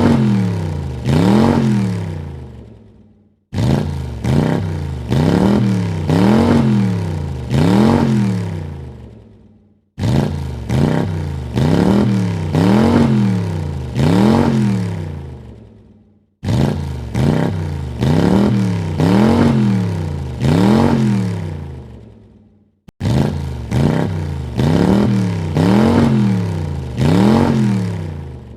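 Car engine revved in quick throttle blips, its pitch rising and falling three or four times about a second apart before dying away. The same short recording repeats four times, each time cut off by a brief silence.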